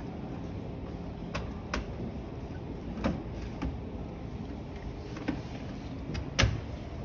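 Clicks and knocks of display washing machine doors being opened and shut and their controls handled, about seven in all, the loudest near the end, over a steady shop-floor hum.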